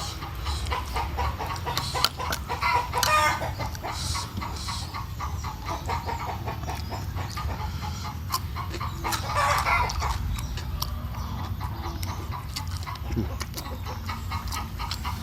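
Domestic chickens clucking in quick repeated notes, with two louder runs of clucks, about three seconds in and again near the ten-second mark.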